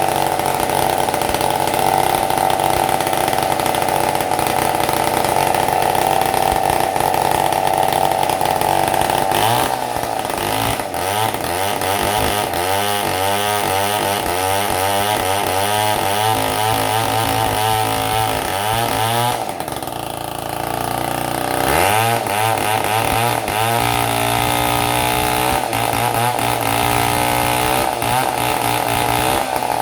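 Stihl 070 two-stroke chainsaw engine running with no muffler. It holds steady at high revs, then is revved up and down repeatedly, drops briefly to idle about twenty seconds in, and revs back up. With new contact points and condenser fitted, it runs on power without sputtering.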